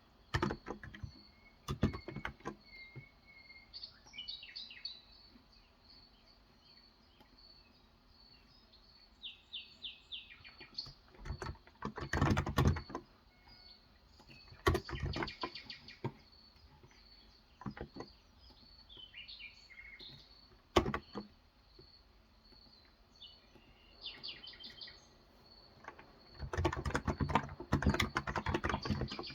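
Typing in bursts on a Cox Endeavor electrostatic-capacitive (Topre-style) keyboard with light 35 g switches, with a long fast run near the end. Birds chirp intermittently between the bursts over a faint steady high tone.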